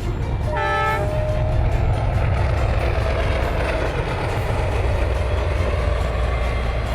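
A train passing close by on the track, a loud, steady rumble of wheels and engine that swells through the middle. About half a second in there is a short pitched tone.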